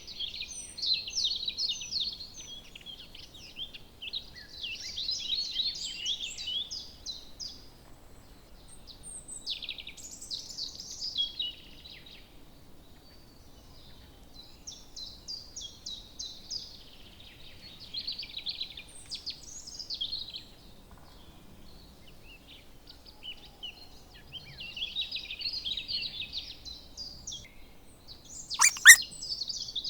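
Small birds chirping and twittering in bursts of quick high notes and trills, each burst a few seconds long with short pauses between. Near the end come two or three sharp, loud clicks.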